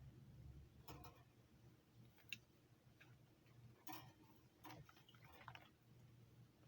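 Near silence with a few faint, sharp clicks or taps spread irregularly across a few seconds.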